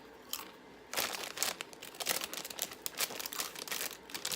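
Crinkly foil snack-chip bag being handled, rustling and crackling in quick irregular bursts from about a second in.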